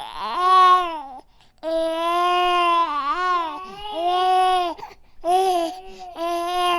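Infant crying: a string of long cries, each a second or two, with short pauses for breath between them.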